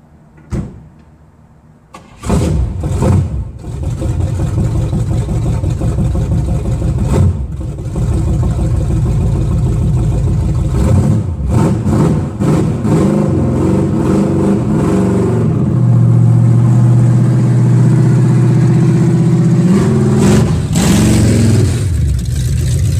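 V8 engine of an Oldsmobile Cutlass G-body starting about two seconds in, then running with changes in throttle as the car drives away, with a steady low hum near the end. The owner thinks the drive sounds like it might be a little low on transmission fluid.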